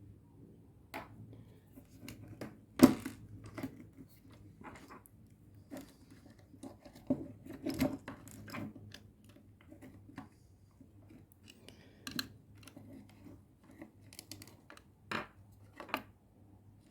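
Irregular clicks, taps and scrapes of hands handling a car door lock mechanism and its small actuator motors, with one sharp knock about three seconds in.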